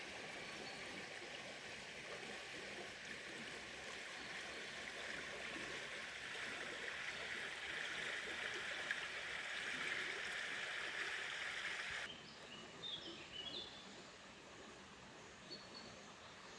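Steady rush of running water, like a stream, that cuts off abruptly about three-quarters of the way through. After the cut it gives way to a quieter background with a few faint high chirps.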